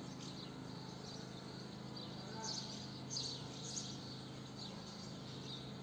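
Swallows twittering in short high chirps, busiest about halfway through, over a steady low hum.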